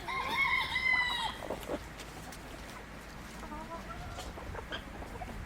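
Chickens calling: one drawn-out hen call at the start, then fainter clucks about three and a half seconds in, with a few scattered clicks.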